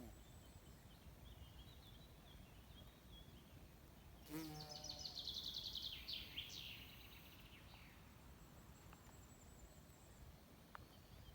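Quiet forest background with a songbird singing a rapid series of high notes about four and a half seconds in, lasting a couple of seconds, just after a brief insect buzz. Fainter distant bird calls come and go.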